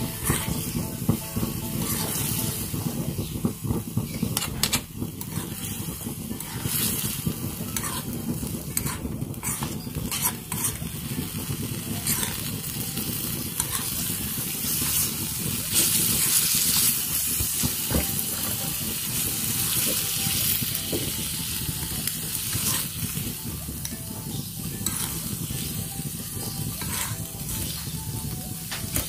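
Chicken hearts in chili balado sauce sizzling as they fry in a miniature wok, with a small metal spatula stirring and scraping against the pan in short scattered clicks.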